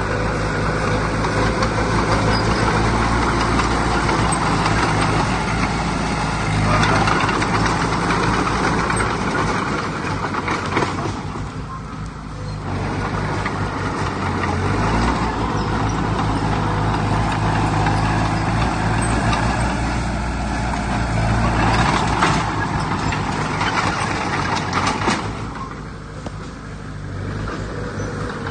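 Heavy diesel earthmoving machinery running under load: a steady low engine drone with loud mechanical noise that rises and falls, easing off briefly twice.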